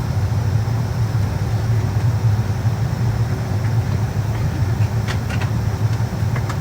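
Steady low drone inside a Boeing 757-200's passenger cabin before departure, with a few faint clicks near the end.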